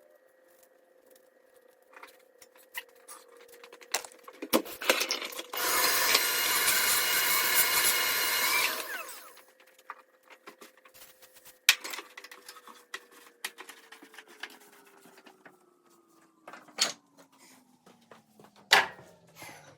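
A small electric motor hums steadily while a loud rush of air blows for about three seconds, with scattered clicks and knocks from debris and handling. Later the motor's hum falls steadily in pitch as it spins down after being switched off.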